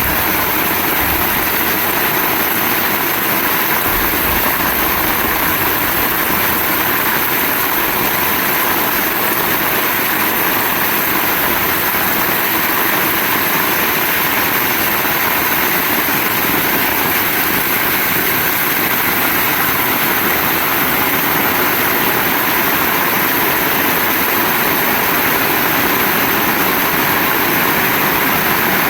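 Heavy rain falling steadily as a dense, even hiss with no let-up.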